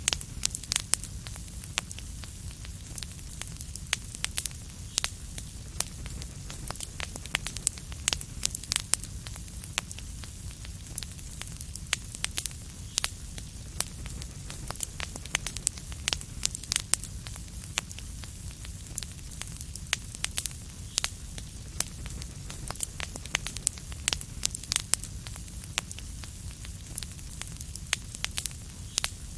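Wood fire in a fireplace crackling steadily, with frequent sharp irregular pops over a low rumble and soft hiss.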